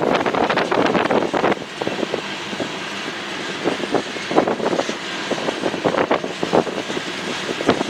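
A train rolling past, with a steady rumble and irregular clanks and clatter from the cars, over wind on the microphone.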